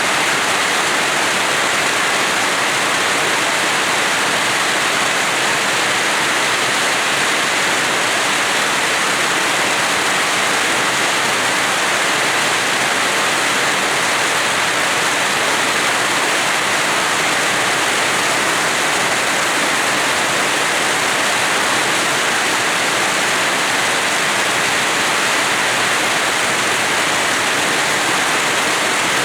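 Rain falling steadily: an even, unbroken hiss with no thunder or single drops standing out.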